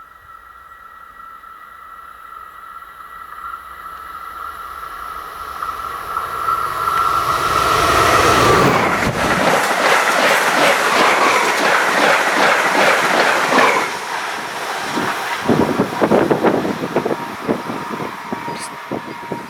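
A train approaches and passes at speed. A steady high whine swells and drops in pitch as the train goes by about eight seconds in, then rapid wheel clatter over the rails is loudest for several seconds and thins out near the end.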